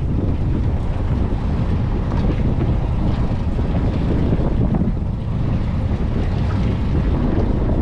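Wind buffeting the microphone aboard a fishing boat at sea: a steady, dense low rumble with no distinct events.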